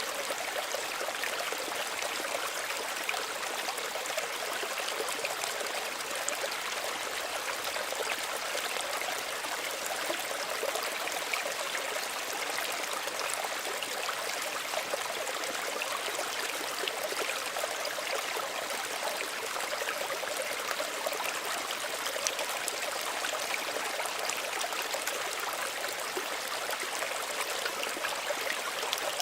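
Small stream running over stones, a steady gentle burble and trickle of water with no pauses.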